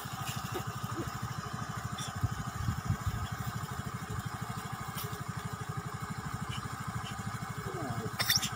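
Motorcycle engine idling with a steady low pulse, and a sharp click near the end.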